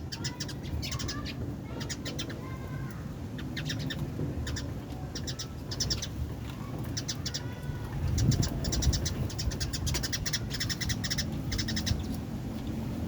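Birds, among them domestic pigeons, chirping and calling in short, quick clicking runs over a low, steady rumble.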